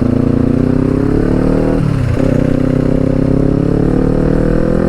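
Kawasaki Ninja 400's 399cc parallel-twin engine, breathing through an Akrapovic exhaust, accelerating hard. The pitch climbs, falls at an upshift about two seconds in, then climbs again through the next gear.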